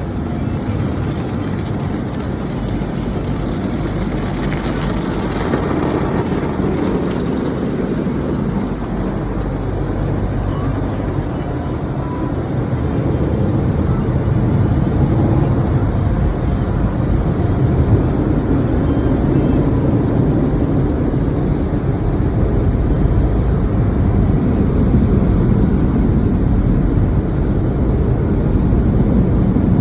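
Steady low rumble of a car, with a brief rush of hiss about four to five seconds in, growing a little louder in the second half.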